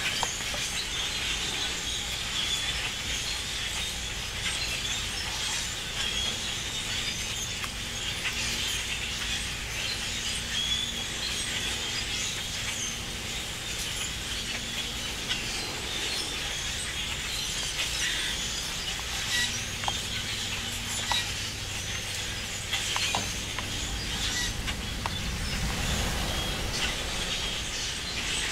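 A large flock of birds calling together, a dense, continuous din of many overlapping chirps and squeaks.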